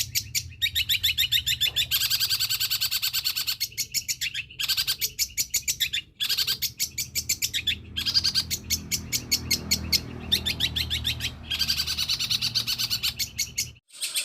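Long-tailed shrike (cendet) singing in long runs of fast, high chirps, about ten a second, broken by several short pauses. The song is stuffed with imitations (isian) of other birds' calls.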